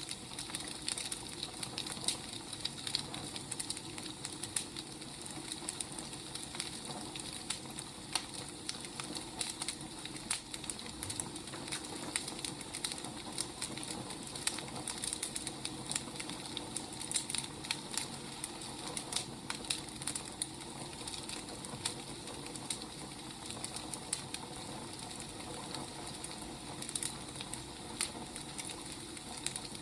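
Firewood burning, crackling with frequent irregular sharp snaps over a steady soft hiss.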